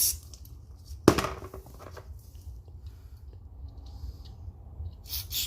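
A single sharp knock about a second in, like a hard object set down or struck on a hard surface, with a short ring after it, followed by faint handling noises over a steady low hum.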